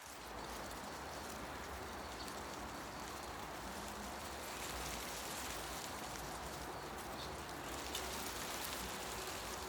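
Forest ambience: a steady hiss of leaves rustling in the wind, with a few faint ticks near the end.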